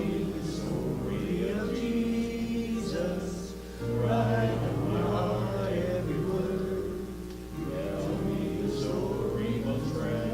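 A congregation singing a hymn together, line by line, with short pauses between phrases.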